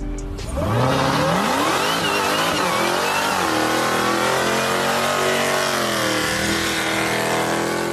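Supercharged Dodge Challenger SRT V8 accelerating hard: the engine note climbs steeply for about three seconds, with a thin high whine over it while it climbs, then holds at a high, steady pitch.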